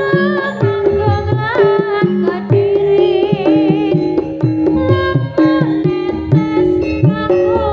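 Javanese jaranan accompaniment played over a PA system: kendang hand drums with pitch-bending strokes under steady gong-chime notes, and a wavering melodic line with vibrato above them.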